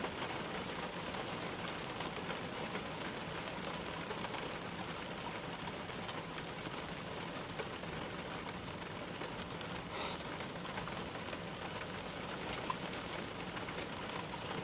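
Steady rain falling during a thunderstorm, an even hiss dotted with the ticks of single drops, with one brief louder tick about ten seconds in.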